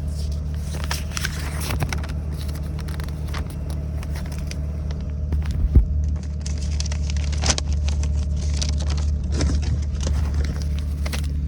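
A paper receipt being unfolded and handled, with irregular crinkling and rustling, over a steady low hum.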